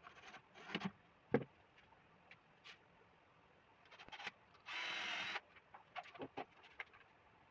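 Scattered small clicks and knocks of parts and tools being handled, with one sharper knock about a second in and a short steady hissing burst about five seconds in.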